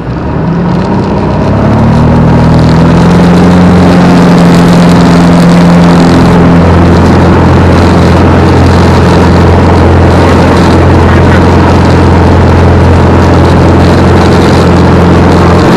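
Piper Comanche 250's six-cylinder Lycoming O-540 engine and propeller opened up to full power for a touch-and-go takeoff. The pitch and loudness climb over the first two seconds, then hold steady and loud.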